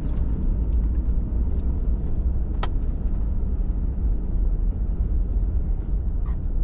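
Pickup truck driving at steady speed, its engine and tyres making a continuous low rumble. A single sharp click about two and a half seconds in, and a fainter one near the end.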